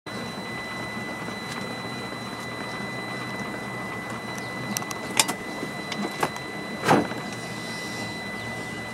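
Steady machine hum with a thin high whine, broken by a few sharp clicks about five seconds in and a louder thump about two seconds later.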